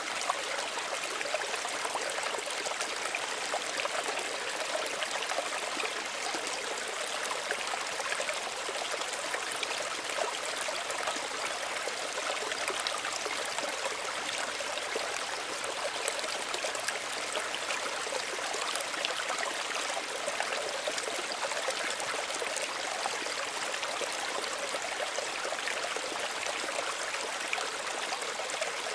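Small stream running steadily over stones, a continuous gentle rush with light trickling and splashing.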